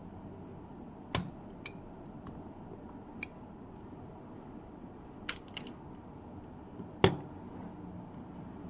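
Several sharp clicks and taps of small hard parts being handled, the loudest about a second in and again near the end, over a steady hiss.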